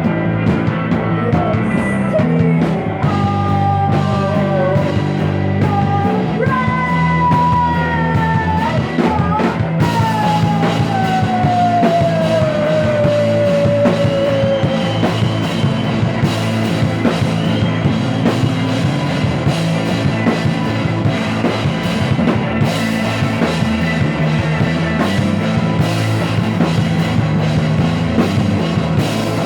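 Rock music playing, with a drum kit and a steady beat. About ten seconds in, a lead melody line glides slowly down in pitch over several seconds.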